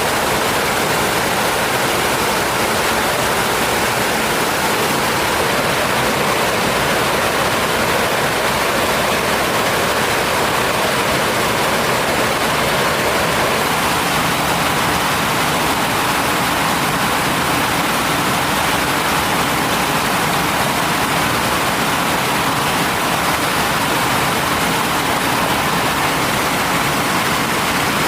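Mountain stream water rushing steadily, a loud unbroken roar of flowing water.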